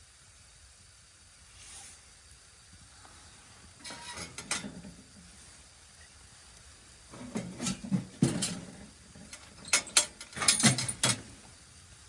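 Handling noise: three bunches of clattering and knocking, about four, seven and ten seconds in, over a faint steady hiss.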